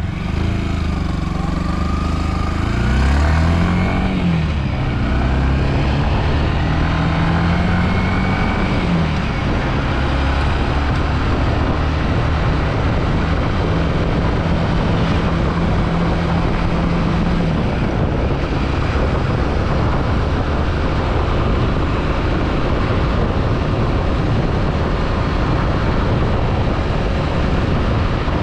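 Yamaha WR155 single-cylinder motorcycle engine under way, revving up and dropping back twice in the first nine seconds as it shifts through the gears, then running at a steady pitch. A dense, even rush of noise runs under it, and after about 17 s the engine tone sinks into that noise.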